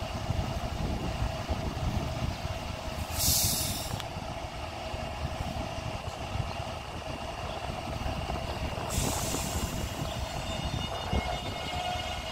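Taipei Metro electric multiple unit running with a continuous low rumble and a steady hum. A short, loud hiss cuts in about three seconds in, and a softer hiss returns near the end.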